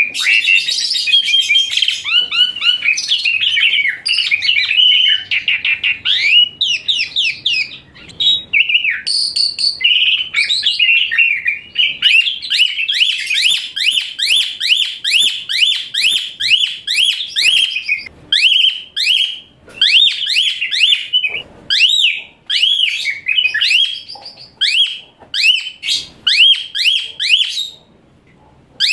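Asian pied starling (jalak suren) singing loudly and continuously, a shrill, high-pitched song with harsh notes mixed in. About twelve seconds in it settles into a fast run of repeated rising notes, several a second, and breaks off briefly near the end.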